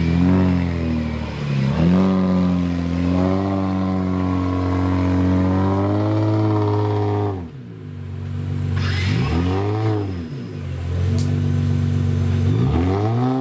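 Prepared off-road 4x4 engine revving hard again and again, its pitch rising and falling as the throttle is worked, with a short lull about halfway through.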